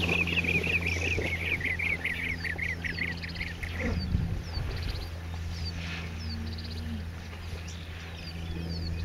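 Birds calling: a rapid chattering series of notes for the first three and a half seconds, and short, high, down-slurred whistles repeating throughout, over a steady low hum.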